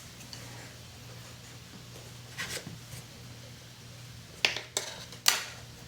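Small handling sounds on a work table: a soft brush about halfway through, then three sharp taps or clicks near the end, over a steady low hum.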